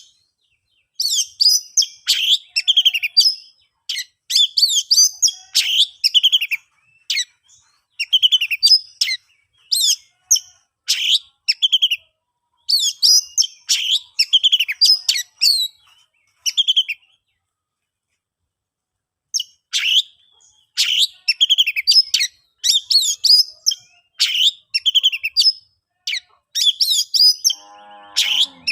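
Oriental magpie-robin singing in phrases of rapid, varied whistles and chirps, with a pause of a couple of seconds past the middle. A short, lower, rattling note comes near the end.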